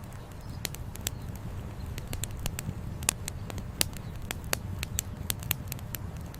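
Wood fire crackling: irregular sharp pops and snaps, several a second, the strongest about three seconds in, over a steady low rumble.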